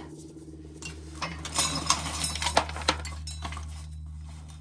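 Dried corn being shelled by hand: kernels clicking and clinking as they drop into a pail, with a short burst of rattling about one and a half to two and a half seconds in. A steady low hum runs underneath.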